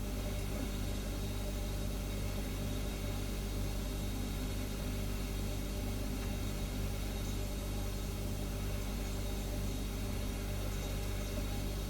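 Refrigerator humming steadily: an even low drone made of several steady tones, with a light hiss over it.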